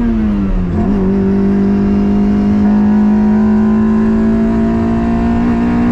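Toyota MR2's swapped 2ZZ four-cylinder engine under way on track: the revs fall, then jump up about a second in, then climb slowly and steadily as the car accelerates.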